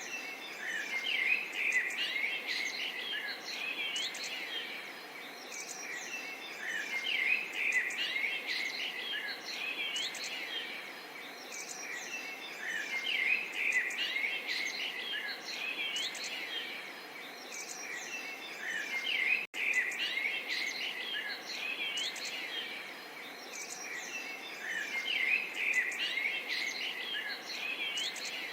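Small songbirds chirping and trilling busily over a gentle, steady babble of water, with a momentary dropout about two-thirds of the way through.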